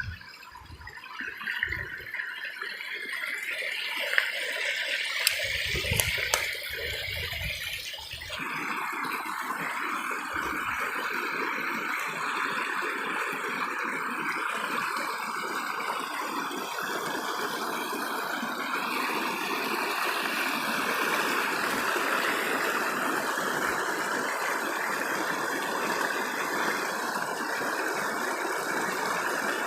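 Rushing stream water, a steady hiss that becomes fuller suddenly about eight seconds in. A few low thumps and clicks come before the change.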